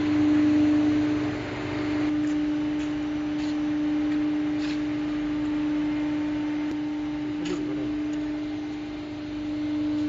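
A 200-ton CNC hydraulic press brake running, its hydraulic pump giving a steady hum, with a few faint clicks.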